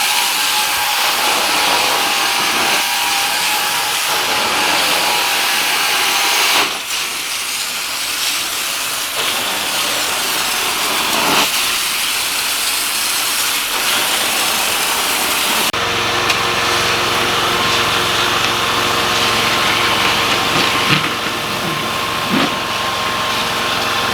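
Carpet-cleaning extraction equipment running: a loud, steady rushing hiss of suction and spray. It changes abruptly about 7 seconds in and again about 16 seconds in, where a steadier hum with a faint whine takes over.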